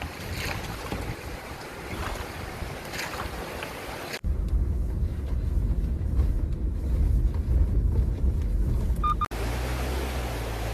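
Rushing stream water with wind buffeting the microphone, in three edited clips: hard cuts about four and nine seconds in, the middle clip with a heavy low rumble.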